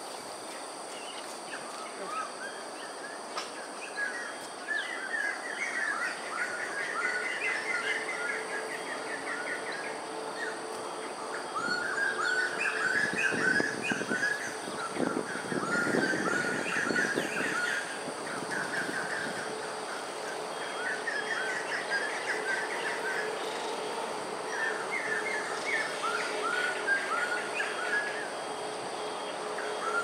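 Small birds chirping in repeated quick runs of short rising notes, each run lasting a few seconds, over a steady outdoor background hiss.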